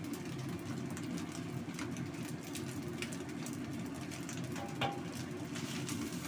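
Fried rice sizzling in a wok while a spatula stirs and tosses it, with scattered light scrapes and ticks and one sharper tap about five seconds in.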